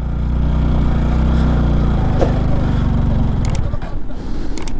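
Motorcycle engine running hard under load as the bike tries to climb a slope. It holds a steady note for about two seconds, then turns rougher and uneven, with a few sharp clicks near the end.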